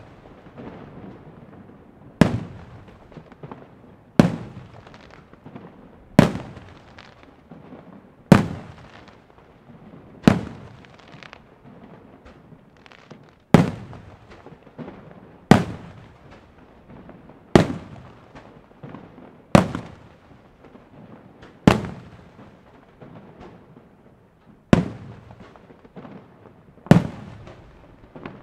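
Aerial firework shells bursting overhead: a sharp bang about every two seconds, a dozen in all, each followed by a rolling echo that dies away before the next.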